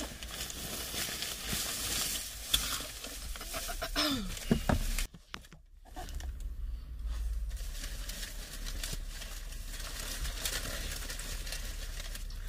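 Crinkling and rustling as crispy fried chicken wings are handled, then a person chewing and crunching the wings, with a break of about a second about five seconds in.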